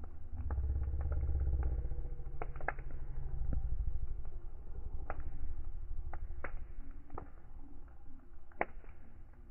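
Fire crackling, with sharp irregular pops and snaps over a low rumble that is strongest in the first four seconds and then eases.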